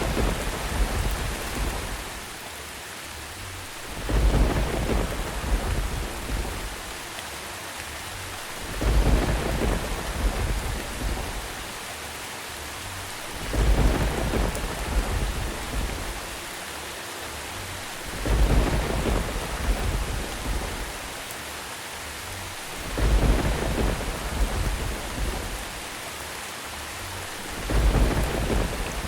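Steady rain with thunder rumbling again and again at even intervals, about every four to five seconds, each rumble swelling quickly and dying away over a couple of seconds.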